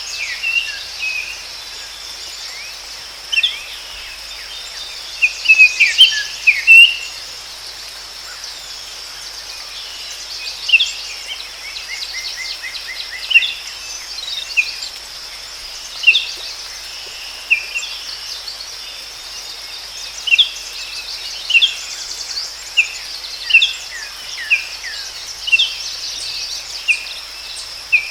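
Forest ambience of birds calling, with short chirps and whistled notes every second or two and a quick trill about halfway through, over a steady high-pitched insect drone.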